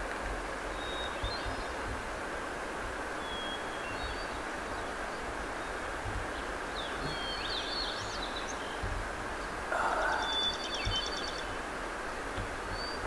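Small birds chirping now and then, with a rapid trill about ten seconds in, over a steady outdoor hiss. Light wind thumps on the microphone.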